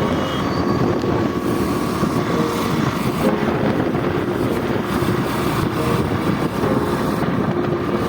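Steady road noise heard while riding a motorbike through traffic: engine and tyre noise mixed with passing vehicles.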